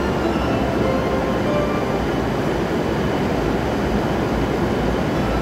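Steady low rumble of a train approaching slowly along a covered station platform.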